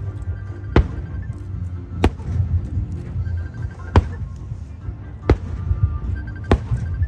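Aerial fireworks bursting, five sharp bangs about every one and a half seconds, over steady background music.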